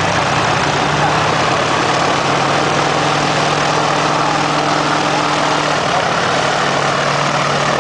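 BA Swallow light aircraft's geared piston engine idling steadily on the ground, propeller turning, with a steady low hum under the engine noise.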